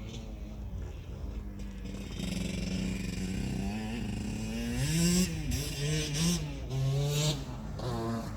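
KTM 65 SX dirt bike's single-cylinder two-stroke engine running, steady at first, then revving up and down repeatedly and getting louder in the second half.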